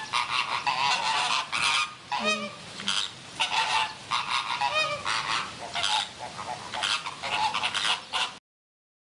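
An animal giving repeated calls in quick succession, about two a second and some overlapping, that cut off abruptly near the end.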